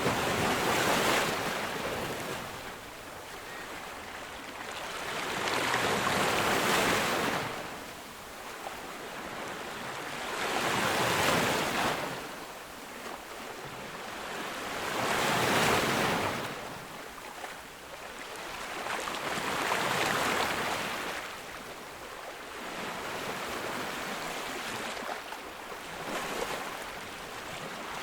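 Ocean waves breaking on a beach, each surge of surf swelling and washing back about every four to five seconds, with a quieter lull near the end.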